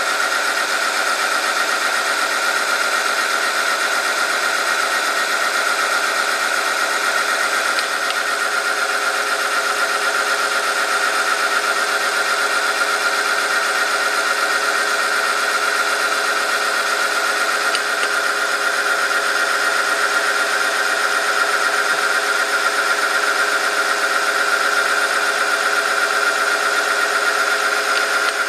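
Oil-film test machine running with a steady high whine as its rotating part rubs against a steel test sample lubricated with 5W-40 diesel engine oil.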